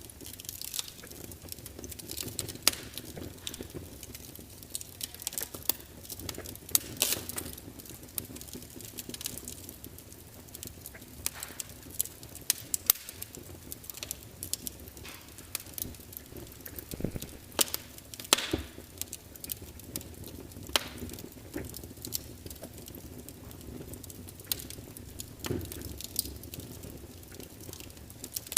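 Log fire crackling: irregular sharp snaps and pops from the burning wood, a few louder than the rest, over a low steady hiss and rumble of the flames.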